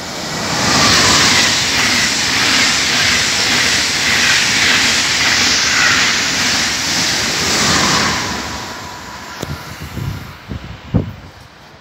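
ICE high-speed train running through the station without stopping: a rush of wheels on rails and air that builds up, holds for about seven seconds as the coaches pass, then fades as the train moves away. Near the end come a few short low thumps, the loudest about a second before the end.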